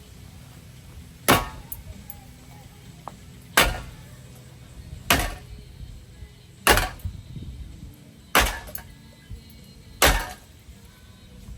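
A ceiling fan being smashed: six hard blows about one and a half seconds apart, each a sharp crack with a brief ring after it.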